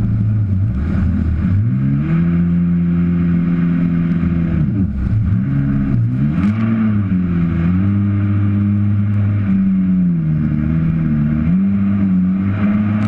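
Jet ski engine running under changing throttle: its pitch climbs about two seconds in and holds, drops sharply around five seconds, then rises and eases several more times.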